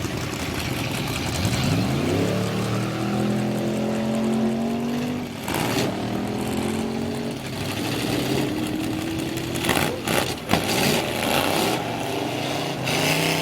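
Vintage drag-race car engine accelerating hard: its pitch climbs steadily, breaks off about five and a half seconds in and climbs again, with a few sharp cracks around ten seconds in.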